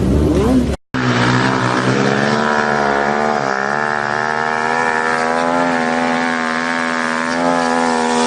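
Motorcycle engine held at steady high revs, its pitch wavering only slightly. It follows a short rising rev and an abrupt break just under a second in.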